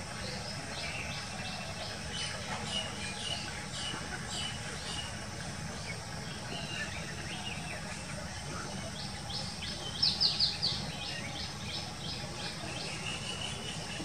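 A bird singing in quick runs of short high notes, the loudest run about ten seconds in, over a steady low background rumble.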